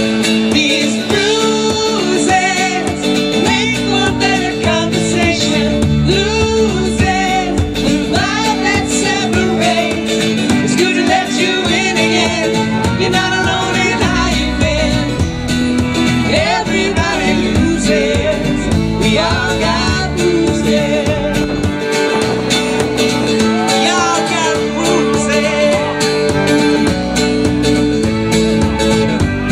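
Live acoustic country-pop music: guitar accompaniment holding steady chords, with a wandering melody line over it.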